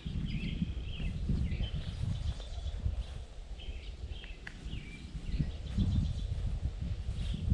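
Songbirds chirping in short phrases, high and intermittent, over a constant low, uneven rumble of wind and movement in the field.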